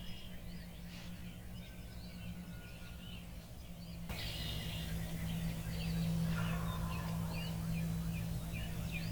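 Small songbirds chirping and calling in the open, many short high chirps, over a steady low hum. The background changes abruptly about four seconds in.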